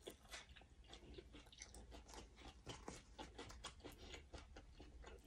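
Faint, close-up chewing of fresh raw herb leaves: many small, irregular crisp clicks and crunches as the leaves are bitten and mashed.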